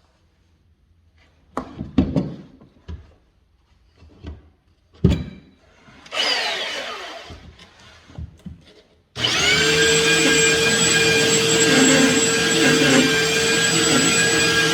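Wood and tool handling knocks, then an electric power sander starts suddenly about nine seconds in and runs steadily with a high whine, sanding down a stair nose repair that sticks out too far.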